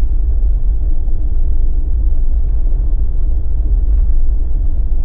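Jeep driving, a steady low rumble of engine and road noise.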